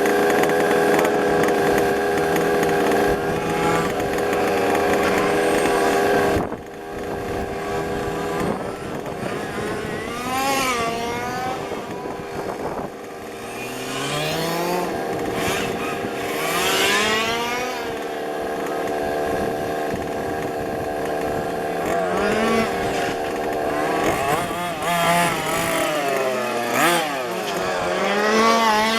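Small two-stroke petrol engines of 1:5 scale RC cars: a steady high drone for about six seconds, then, after a sudden drop, several engines revving up and down again and again as the cars accelerate and brake around the track.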